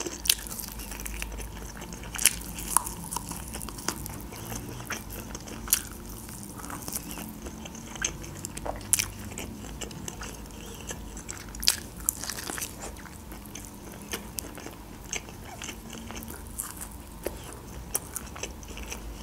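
A person biting and chewing a fried chicken wing, with irregular sharp crunches and mouth clicks scattered through the chewing.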